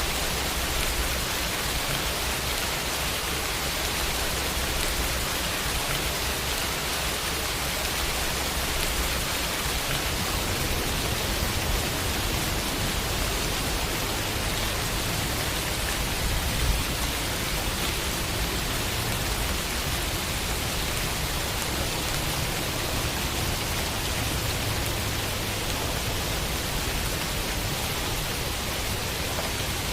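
Steady rainfall on a window: an even hiss of rain with a low rumble underneath. A single slightly louder drop or knock about 17 seconds in.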